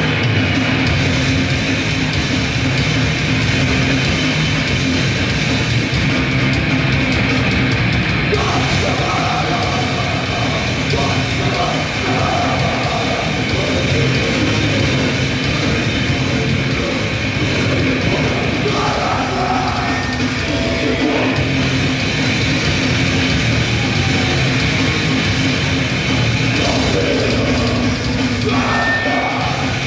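Grindcore band playing live at full volume: distorted electric guitars, bass and drums in a dense, unbroken wall of sound, with vocals coming in over it about eight seconds in.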